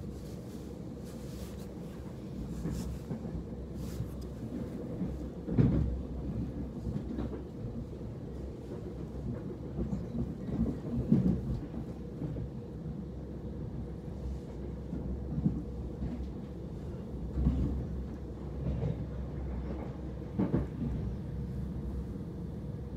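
Interior of a Southern Class 377 Electrostar electric train in motion: a steady low running rumble with a constant hum, broken now and then by louder thumps and knocks.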